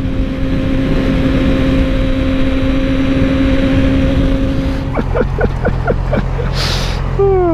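Yamaha R6 600cc inline-four engine running at a steady high pitch under way, with wind rush; about five seconds in the high note drops away to a lower one as the throttle eases.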